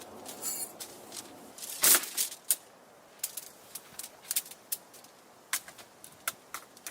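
Irregular sharp clicks and snaps, with a louder knock about two seconds in.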